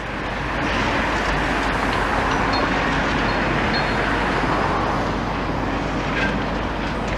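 Steady vehicle engine and traffic noise, swelling about a second in and easing slightly near the end.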